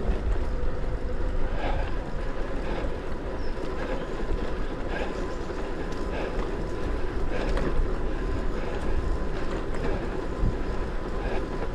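Steady riding noise from an electric hybrid bike on the move: wind on the microphone and tyres rolling on the path. Over it runs a faint steady whine, with light ticks about once a second.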